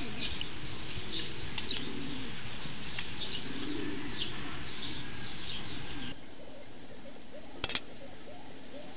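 Small birds chirping over and over in short falling notes, stopping about six seconds in. A single sharp click comes near the end.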